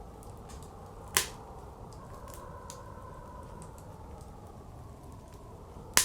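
Wood fire crackling with small faint snaps and two sharp, loud pops, one about a second in and one at the very end, over the steady blowing of blizzard wind.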